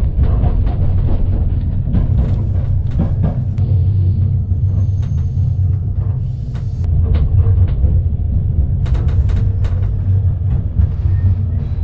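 Sleeper-train carriage in motion: a steady low running rumble with irregular clicks and rattles.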